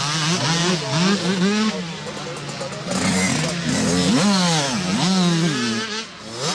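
Several motocross bikes revving, their engine notes climbing and dropping over and over and overlapping as the riders work the throttle and shift gears. The sound dips briefly near the end.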